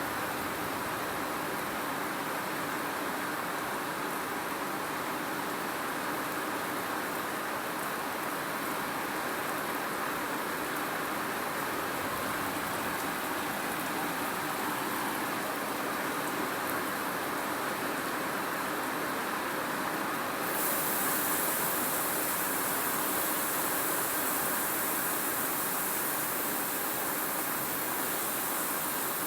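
Steady hiss of rain falling. About twenty seconds in, the hiss abruptly turns brighter and slightly louder, and stays that way.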